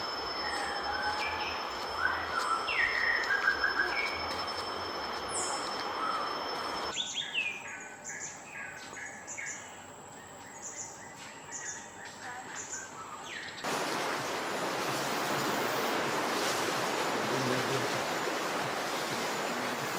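Jungle ambience: birds chirping and calling over a steady high whine, with an abrupt change about seven seconds in to quieter, repeated chirps. About two-thirds of the way through it switches to a loud, even hiss.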